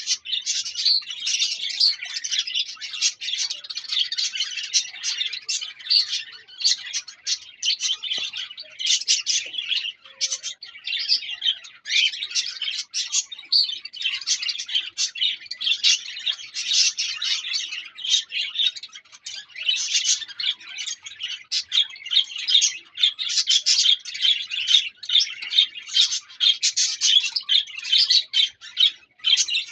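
A flock of caged small parrots, budgerigars and cockatiels, chattering and chirping without a break, many calls overlapping.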